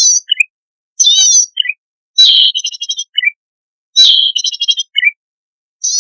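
Cisticola song: a buzzy, trilled high note about half a second long followed by two or three short lower chirps, repeated every second or two, with two longer stuttering notes in the middle.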